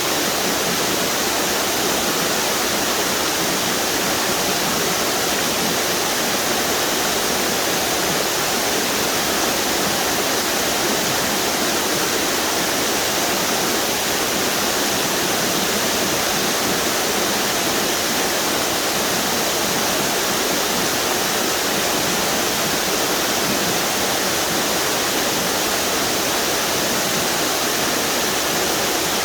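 Waterfalls on a river, a steady, unbroken rush of falling water.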